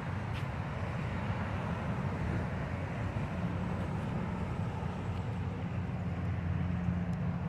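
Steady low rumble of passing vehicle traffic, swelling a little around the middle.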